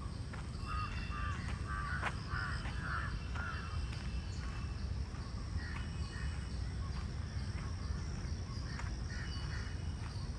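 Crows cawing in several short runs of calls, over a steady high insect drone and a low background rumble.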